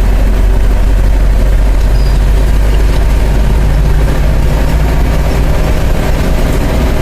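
Bus engine running with a steady, heavy low rumble.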